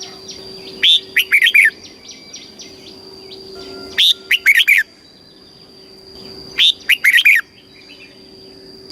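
Red-whiskered bulbul singing short, loud, warbling phrases, three of them about three seconds apart. A faint steady high-pitched tone runs underneath.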